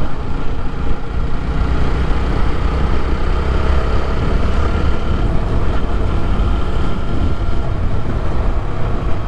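Motorcycle riding at road speed, most likely a TVS Apache RTR 160 4V: steady wind rumble on the microphone with the single-cylinder engine running underneath.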